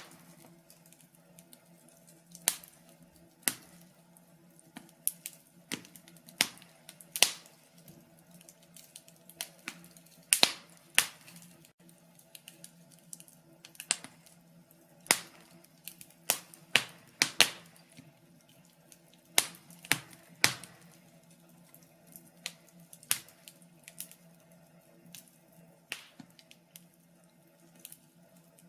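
Wood fire crackling in a fireplace: irregular sharp pops and snaps, one to three a second and sometimes in quick pairs, over a faint steady low hum.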